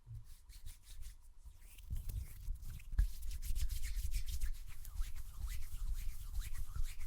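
Hands rubbing together quickly and close to the microphone in a fast run of rapid strokes. The rubbing starts softly, grows louder about two seconds in, and a single sharp click or clap comes about three seconds in.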